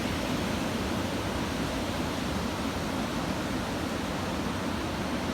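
Ocean surf breaking on a beach, a steady, even wash of noise with no separate crashes standing out.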